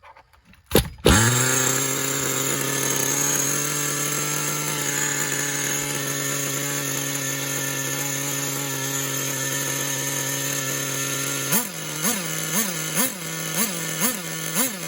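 HPI G3.0 nitro engine in an HPI WR8 3.0 RC rally car starting about a second in, then running at a steady high idle. Near the end it is revved in short throttle blips, about two a second.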